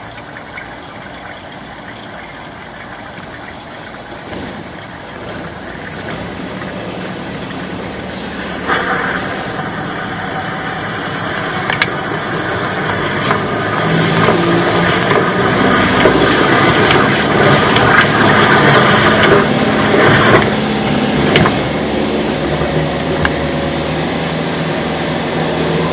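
An engine running steadily, getting louder from about eight seconds in, with a few sharp knocks over it.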